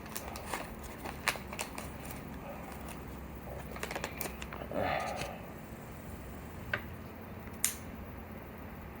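Light handling noises: scattered small clicks and ticks with paper-like rustling, a short rustle about five seconds in and two sharp ticks near the end, over a steady low hum.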